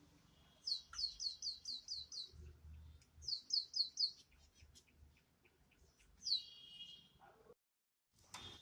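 Pet bird chirping: a quick run of about eight short, high, falling chirps, a second shorter run of four a second later, then a single chirp.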